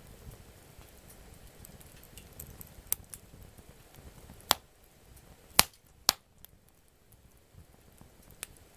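Campfire wood burning with a soft crackle and a handful of sharp pops, the loudest a little past halfway.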